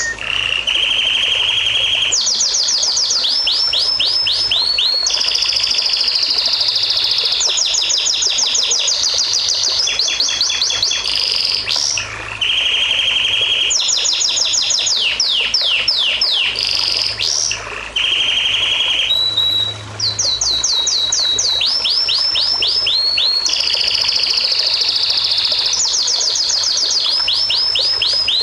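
A songbird singing continuously in long, varied phrases: fast trills, rapid runs of downward-sweeping notes and buzzy rolls, the sequence recurring about every six seconds with brief pauses between phrases.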